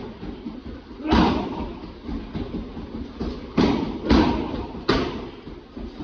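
Kicks landing on a Muay Thai kick shield, smacking four times hard and irregularly with a few lighter hits between.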